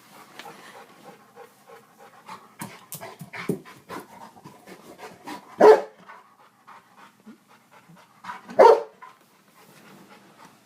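A dog panting while it chases a metal padlock across the floor, with scattered clicks and scrapes throughout. Two short, loud barks come about five and a half and eight and a half seconds in.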